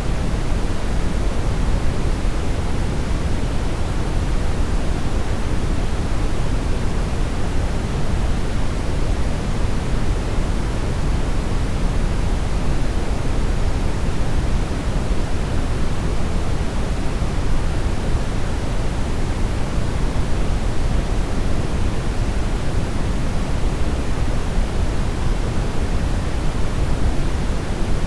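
Synthetic brown noise: a steady, even hiss-rumble with most of its energy in the low end, unchanging throughout.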